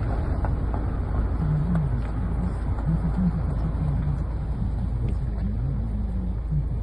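Steady low rumble of a car's engine and road noise, heard from inside the cabin. From about a second and a half in, a low wavering pitched sound comes and goes over it.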